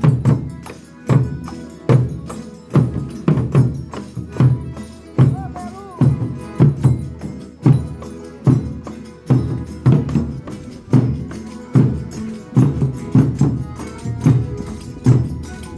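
Folia de Reis folk ensemble playing, led by a steady, even drum beat with tambourine and pitched instruments over it.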